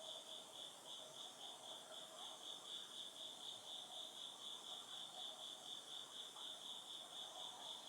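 Autumn insects chirping faintly in a steady, even pulse of high-pitched trills, about five a second.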